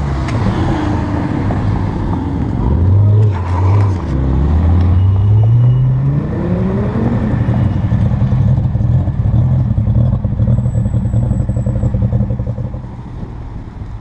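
A Mazda RX-7's engine accelerating away: the revs climb, dip briefly at a gear change about four seconds in, climb again, then hold a steady note as the car drives by, fading near the end.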